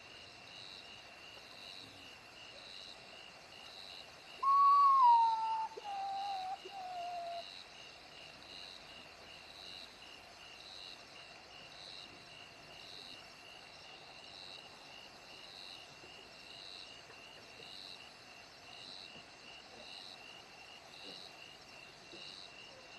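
A bird's single loud whistled call that falls in steps over about three seconds, over a steady, high, pulsing background chorus.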